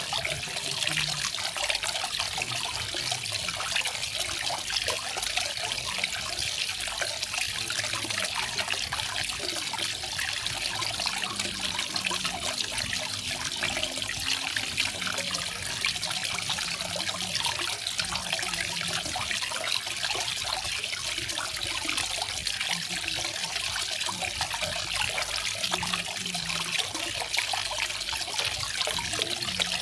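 Garden waterfall: water falling and splashing steadily, an even high-pitched rush with no breaks.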